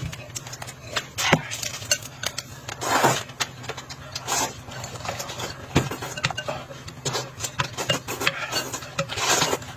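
Eating from a bowl: utensils clicking and scraping against the bowl many times, with a few short eating noises in between.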